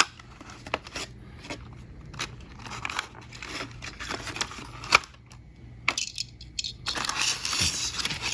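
Diecast car packaging being handled: scattered clicks and taps of cardboard and plastic, then a rustling, tearing stretch of about a second near the end.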